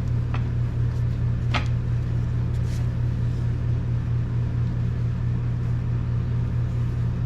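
Steady low machine hum from a running motor, unchanging throughout, with a few faint clicks of parts being handled.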